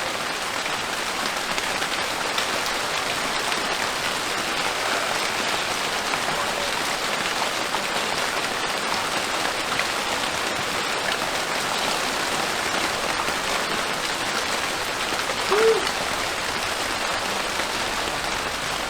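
Steady rain falling, an even hiss of drops. About three-quarters of the way through, one short pitched call stands out briefly above it.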